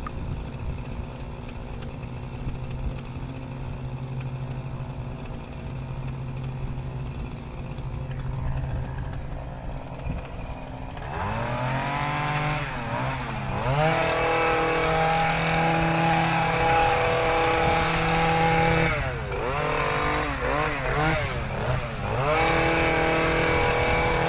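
Stihl KM94R two-stroke hedge trimmer being throttled up about 11 seconds in and run at high revs while trimming, easing off and revving back twice near the end. A steady lower engine hum runs under it beforehand.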